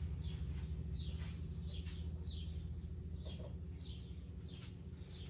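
A small bird chirping over and over, short falling chirps about twice a second, over a steady low hum.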